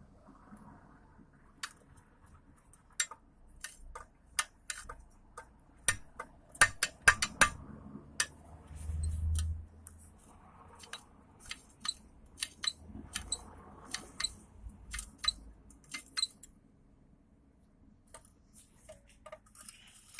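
Metal tools and parts clicking and clinking irregularly while a car's front wheel hub assembly is handled, with a low rumble lasting over a second about nine seconds in.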